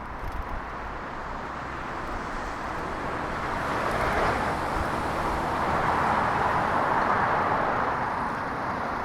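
Street traffic noise: the tyre and engine hiss of passing cars, swelling twice, about four seconds in and again from about six to eight seconds.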